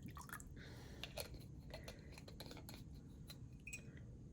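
Faint, scattered light clicks and taps of a spoon and small kitchen utensils against a bowl while sauce ingredients are measured, over low room hum.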